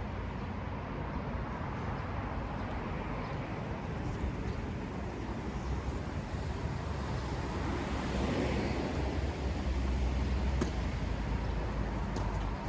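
Steady road-traffic noise, swelling as a vehicle passes about eight seconds in.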